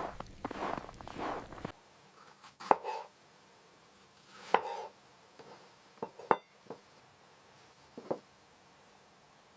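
Rustling and handling clatter, then several separate sharp knocks and clinks with a short ring, a second or two apart.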